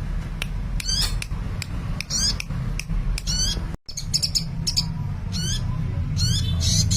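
Sunbird singing actively: quick runs of high, thin chirps and short sweeping notes over a steady low hum. The sound cuts out for a split second a little past the middle.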